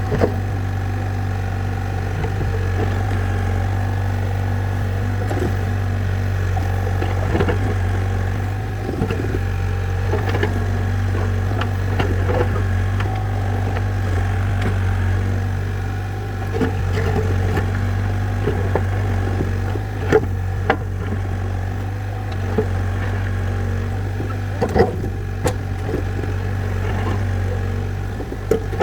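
A tractor's diesel engine runs steadily while it cuts a dirt track, with scattered sharp knocks and clacks, a dozen or so through the stretch.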